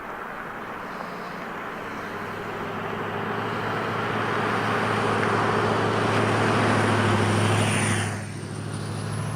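Road vehicle running, with a low engine hum and tyre and road noise that build up over several seconds and drop off sharply about eight seconds in.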